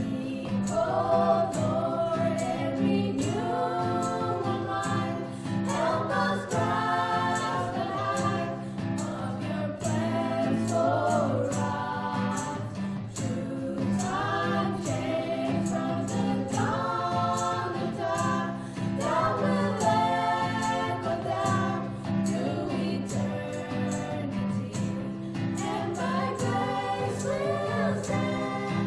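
A group of voices singing a song together, with a steady instrumental accompaniment underneath.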